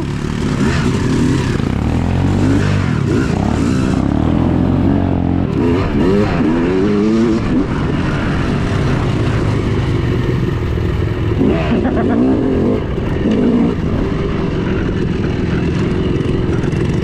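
Yamaha YZ250 two-stroke dirt bike engine running under way, revving up and easing off several times as the rider works the throttle.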